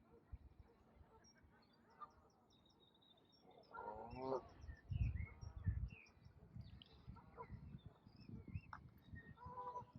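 Ducks quacking, with a quick run of quacks about four seconds in and a softer one near the end, while small birds chirp and twitter faintly in the background. Low rumbling bumps, loudest around five to six seconds in, sit under the calls.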